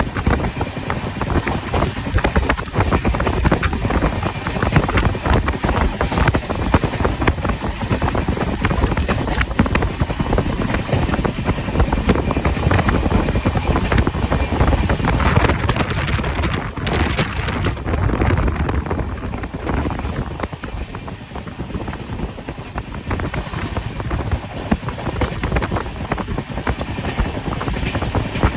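Express passenger train in motion: a steady running rumble and rattle of the coaches on the track, easing a little about twenty seconds in.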